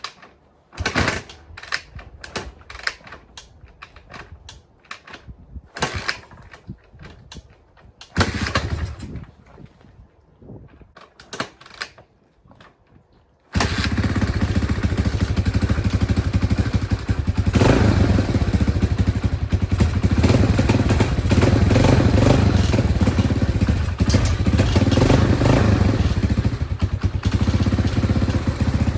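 1984 Honda XL200R's single-cylinder four-stroke engine being started after sitting two weeks: for about thirteen seconds, irregular knocks and rattles of the starting attempts, then the engine catches suddenly and runs loud and steady, with the choke pulled out.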